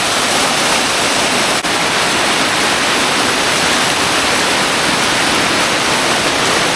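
Steady rushing of a waterfall's falling water, a loud even hiss, with a momentary dip about a second and a half in.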